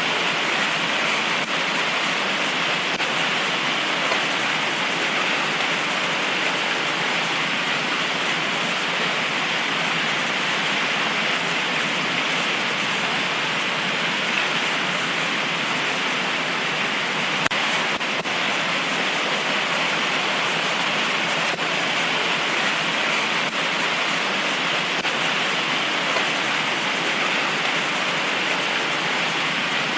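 Heavy tropical rain pouring down steadily, an even hiss of rainfall with an occasional faint tick.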